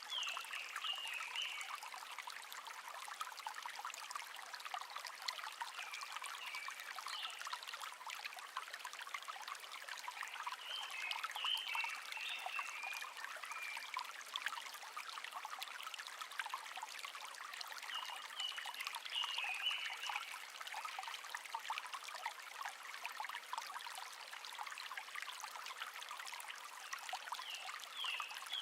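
A shallow brook trickling and babbling steadily, with a songbird singing short twittering phrases about every six seconds, five times in all.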